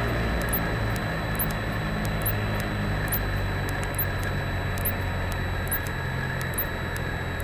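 Cessna 172 Skyhawk's piston engine running steadily at low power in the cabin after landing, a steady low drone under an even hiss. A faint high chirp repeats a little more than once a second throughout.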